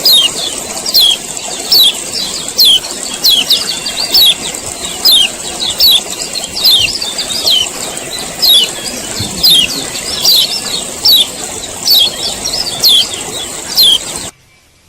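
Male kecial kuning (yellow white-eye) giving its sharp 'ciak ciak' call over and over, quick chirps falling in pitch, about two a second, over a steady high hiss; the calling stops abruptly near the end. This is the bird's excited call.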